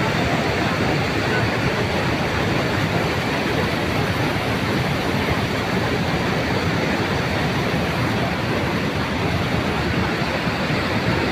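Steady, unbroken rush of fast-flowing water, as from a mountain stream or waterfall.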